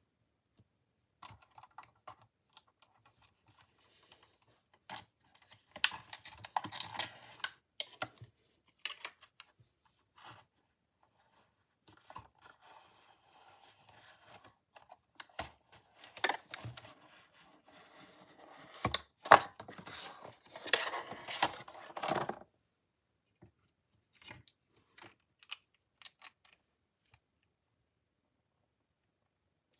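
Packaging of a speed cube being opened by hand: crinkling, tearing and clicking in irregular bursts with short pauses, loudest about two-thirds of the way through.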